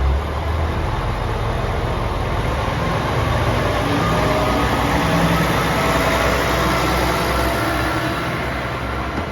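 KiHa 47 diesel railcar's engine running, a steady drone whose tones grow somewhat stronger in the middle.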